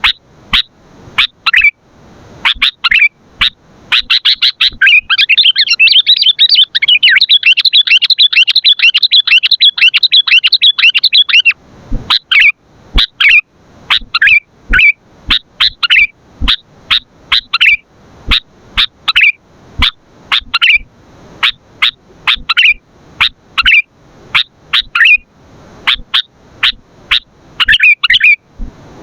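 Sooty-headed bulbul (kutilang) calling in loud, short, sharp chirps. From about four seconds in it breaks into a rapid, unbroken chattering run for several seconds, then goes back to separate chirps.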